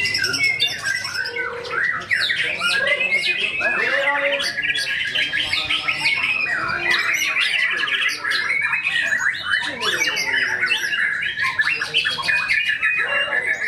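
White-rumped shama singing continuously: a fast, varied run of whistles, sweeps and harsh notes, full of mimicked calls of other birds.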